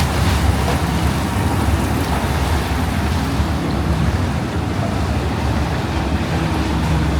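Canal-side city ambience: a steady low rumble under a noisy wash of water and wind, with a faint engine hum in places, typical of a motorboat running on a nearby canal.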